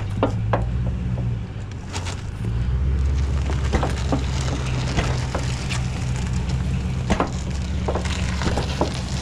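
A vehicle engine running steadily, pulling harder from about two and a half seconds in, with scattered clanks and knocks from the load being dragged.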